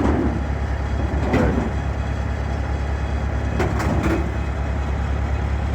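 Skid steer engine running steadily, a constant low drone.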